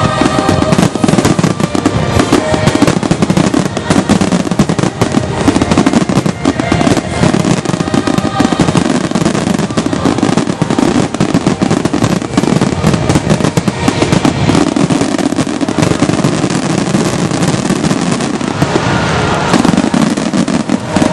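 A fireworks display going off in a rapid, unbroken string of bangs and crackling, with music playing under it.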